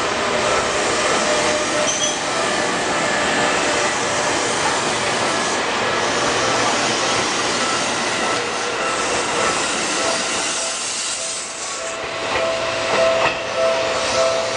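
Seibu 2000 series electric commuter train passing close by at speed: a steady rush of wheel and running noise that fades about three-quarters of the way through. A level-crossing bell rings, heard more clearly as repeated tones near the end.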